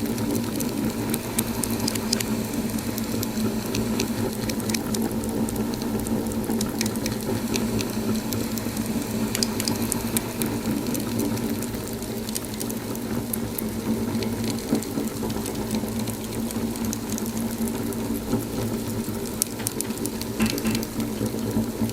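Wood fire in a fireplace crackling, with frequent small sharp pops and snaps over a steady low rush of the burning.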